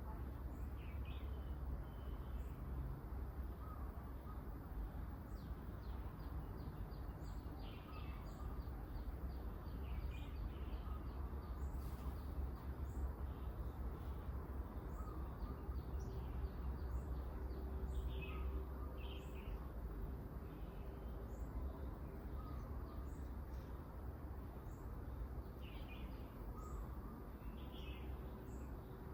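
Garden birds calling on and off, with short calls and high chirps scattered through, over a steady low rumble.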